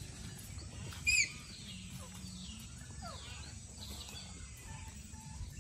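A bird gives one short, loud, sharp call about a second in, followed by a few faint, falling chirps.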